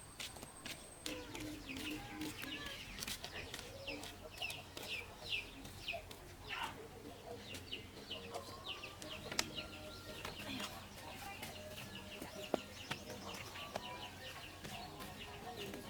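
Chickens clucking, with many short, high chirps throughout and scattered light clicks.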